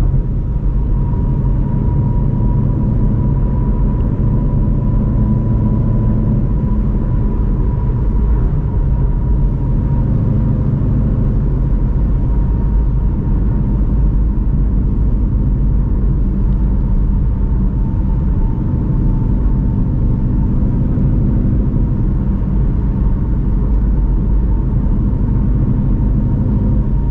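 2016 Shelby GT350's 5.2-litre Voodoo flat-plane-crank V8, breathing through long-tube headers, an X-pipe and a Borla cat-back exhaust, running steadily at a gentle cruise, with a thin steady whine above it.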